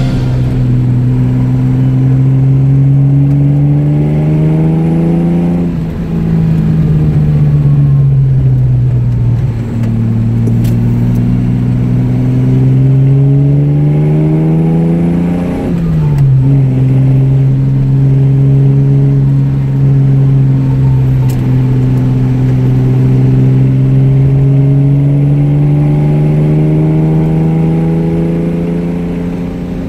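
Jaguar E-type 4.2's straight-six engine pulling on the road, heard from inside the cabin: its note climbs under acceleration, sinks back as the throttle eases, and drops sharply at a gear change about halfway through. The sound fades near the end.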